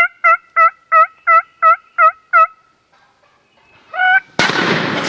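A run of about nine turkey yelps, about three a second, then a single shotgun shot about four and a half seconds in, the loudest sound, fired at a turkey at close range.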